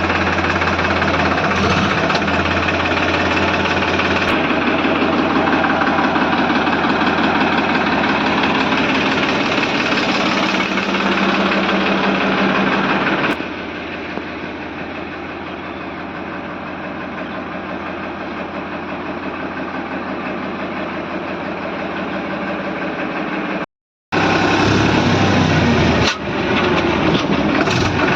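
Heavy diesel machinery engine running steadily. It becomes quieter a little before halfway through and cuts out for a moment near the end.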